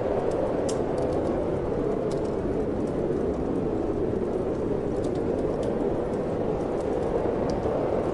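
Steady wind blowing, with light crackles and pops from a wood fire in a fireplace scattered through it.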